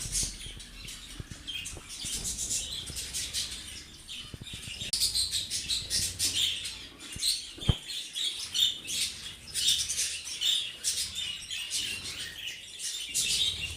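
Budgerigars chirping and chattering continuously in rapid short calls, with one sharp click about eight seconds in.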